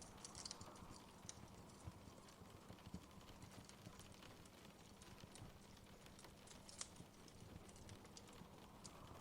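Wood fire crackling softly: scattered small pops and snaps at irregular intervals over a low steady hiss, with a sharper pop about seven seconds in.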